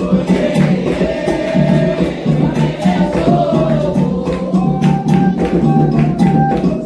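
Candomblé ritual music: atabaque hand drums and percussion keep a steady rhythm under a group of voices singing a chant to the orixás.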